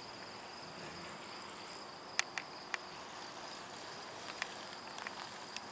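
Steady, high-pitched insect chorus, with a few sharp clicks scattered through it.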